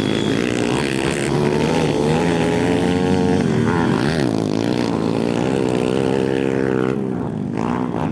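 Pit bike engines running on a motocross track, their pitch rising and falling with the throttle.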